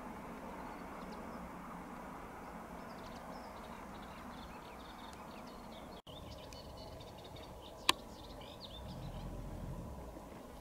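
Faint, steady rumble of a distant Alstom Coradia Liner passenger train running towards the listener, with small birds chirping in the second half. A single sharp click about eight seconds in, and the low rumble swells briefly near the end.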